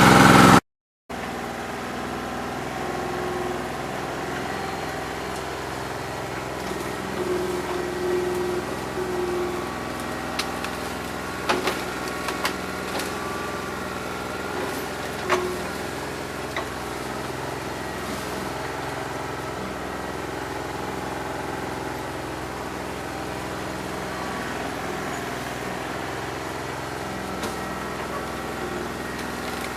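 New Holland 1320 compact tractor's diesel engine idling steadily, running rough on a bad injector with only about two and a half cylinders firing. A few light clicks come midway.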